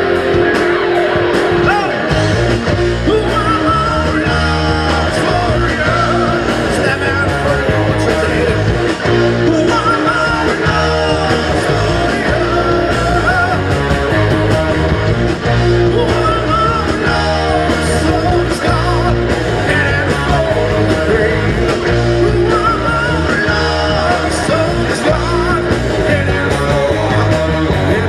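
Live rock band playing loudly: electric guitar, bass and drums with a sung vocal line.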